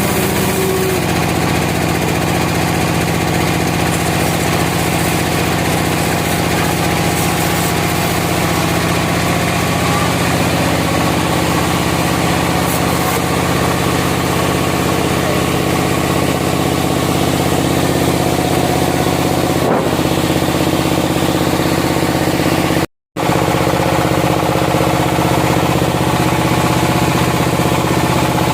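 A sawmill's engine running steadily at constant speed. The sound cuts out completely for a moment about 23 seconds in, then carries on unchanged.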